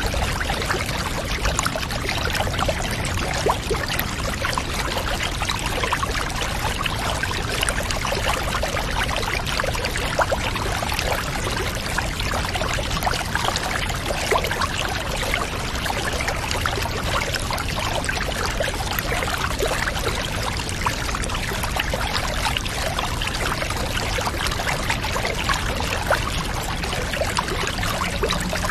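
Water pouring steadily into a bathtub, an even splashing rush with fine trickling detail that holds unchanged throughout.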